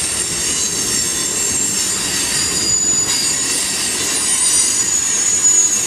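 Union Pacific freight train cars rolling past, with a steady rumble and the steel wheels squealing against the rail in several high, ringing tones that shift in pitch partway through.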